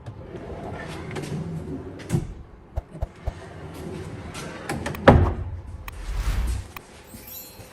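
Wooden workshop drawer on full-extension runners sliding open and shut, with several knocks, a heavy thud about five seconds in, and the rush of the runners sliding just after.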